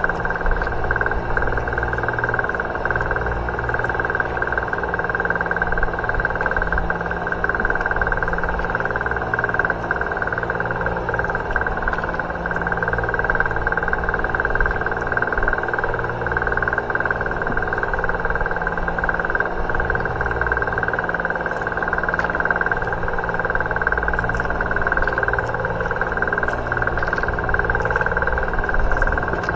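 Steady drone of a fishing boat's engine running at constant speed, a hum with a high whine over a low rumble, with a few faint ticks.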